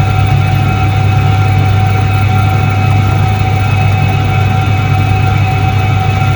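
1978 Soviet Iset-3 washing machine running steadily: a constant low motor hum with an even higher tone above it, unchanging throughout.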